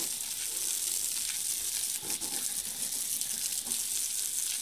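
Water spraying steadily onto a sanded alloy wheel, a continuous hiss, as the wheel is washed to clear out the sanding dust.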